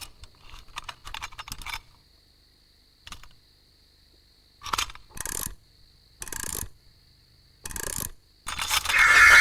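Small metallic clinks and rattles in short bursts, cartoon sound effects of a broken clockwork songbird being taken apart, then a louder, noisier burst near the end.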